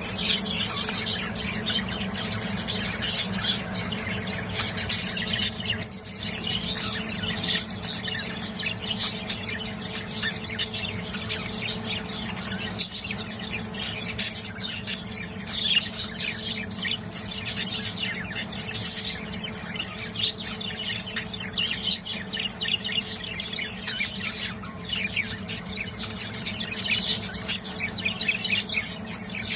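Budgerigars chirping and chattering continuously in quick, high notes, over a steady low hum.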